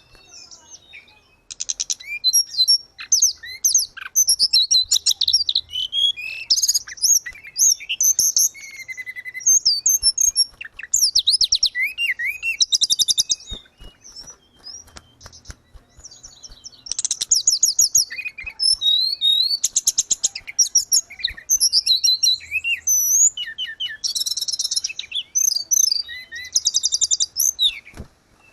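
Tledekan gunung songbird singing a fast, varied song of high whistles, chirps and rapid trills, in phrases separated by short pauses, with a longer break about midway.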